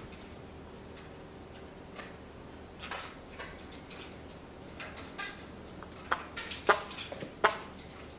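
Small pet parrots close to the microphone making soft, scattered clicking sounds, with a few short, sharp chirps about six to seven and a half seconds in.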